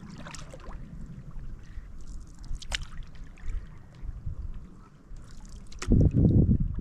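Water sloshing and trickling around a stand-up paddleboard on the river, with a few sharp knocks, then wind buffeting the microphone about six seconds in.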